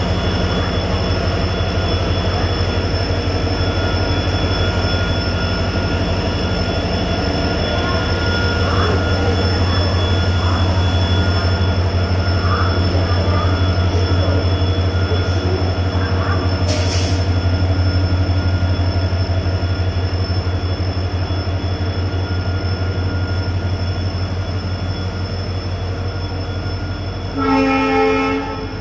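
Indian Railways diesel locomotive with a steady low engine throb, hauling a passenger train out of the station as the coaches roll past with constant wheel noise. A brief hiss comes partway through, and a short horn blast sounds near the end.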